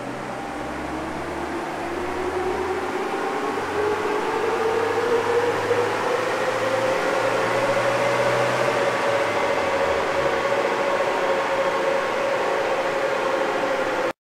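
Mahindra Thar 2.5 diesel engine pulling at full load on a chassis dyno during a power run, its revs climbing steadily from under 2,000 to near 3,800 rpm. The sound grows louder and its tone rises over the first several seconds, then holds near the top of the rev range. It cuts off suddenly near the end.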